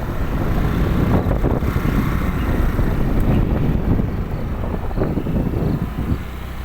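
Wind buffeting the microphone on a moving Suzuki Access 125 scooter, a heavy uneven rumble over the scooter's running engine and road noise.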